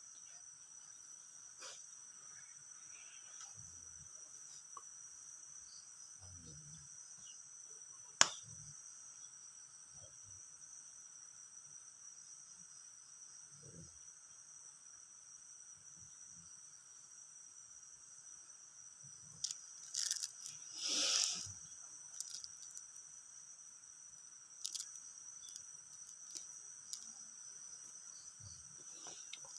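Steady, faint chorus of crickets, a constant high chirring with a fainter lower band beneath it. A single sharp click comes about eight seconds in, and a short burst of noise about twenty seconds in.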